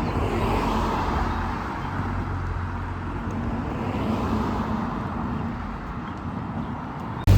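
Road traffic: cars passing, swelling and fading twice over a low engine hum.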